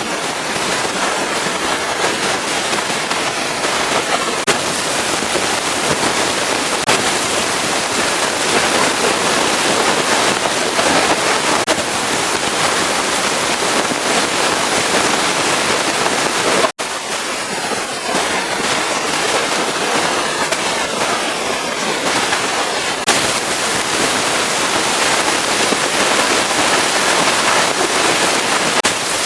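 Pressure washer spraying water, a loud steady hiss with crackling spatter, cutting out for an instant a little past halfway.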